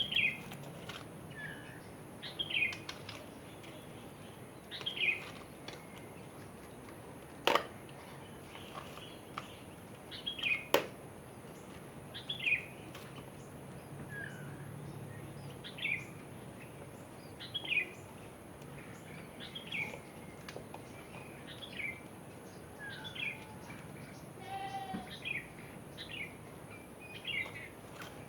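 A bird repeating a short, downward-sliding chirp about every two seconds over steady background hiss, with a brief trill near the end. Two sharp clicks cut in about a third of the way through.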